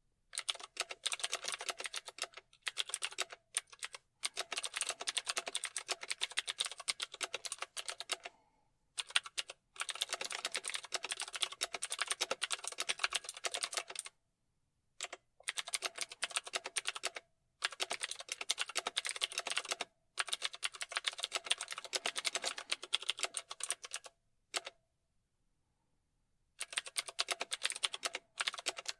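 Typing on a keyboard: runs of rapid key clicks broken by short pauses, the longest lasting about two seconds.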